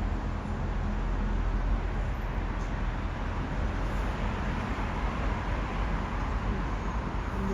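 Steady rumbling noise of a train running through the station, without any sharp events.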